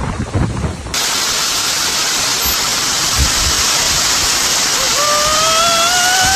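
Steady, dense rushing of water, like a torrent of floodwater, starting abruptly on a cut about a second in. Near the end a pitched tone rises slowly over it.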